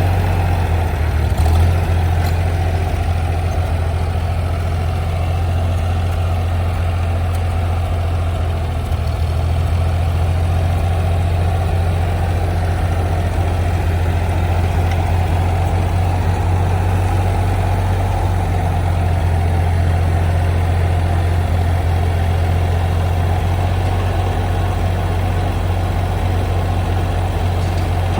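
Ford 3400 industrial tractor's three-cylinder engine running steadily at idle, a low, even hum.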